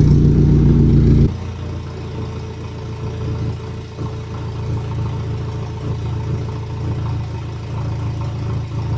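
Forklift engine running: loud and steady, then abruptly much quieter about a second in, running on steadily at a low level.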